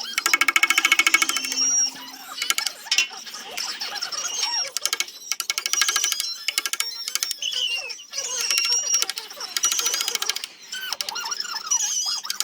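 Power sanding tool working a zelkova root, a rapid, continuous rattle with a whine that wavers in pitch as the pressure on the wood changes.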